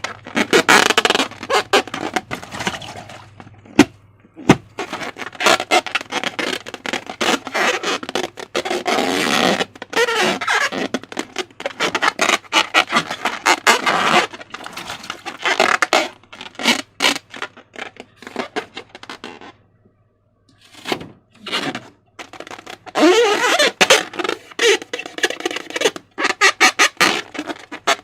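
Sticky slime being worked by hand: wet squelching, with rapid irregular crackling and popping of small air pockets, pausing briefly twice in the second half.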